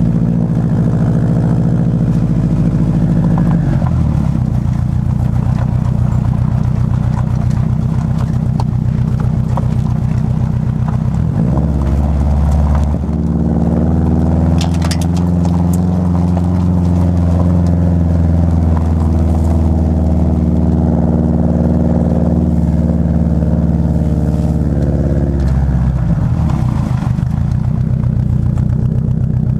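Subaru Forester's flat-four engine and exhaust running steadily under way, the engine note shifting in steps: up about a third of the way through and back down near the end.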